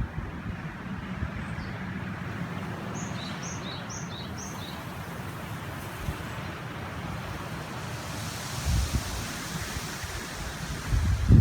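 Steady rushing of a river with wind in the background. A small bird gives four quick two-note chirps a few seconds in. Low rumbles of wind buffet the microphone near the end.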